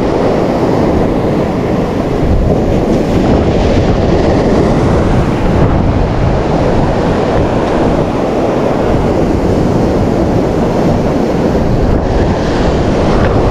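Wind blowing hard across the microphone over the sound of sea surf washing on the shore, a steady loud rushing noise.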